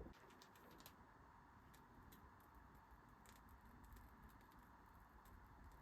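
Near silence: room tone with faint, scattered light clicks.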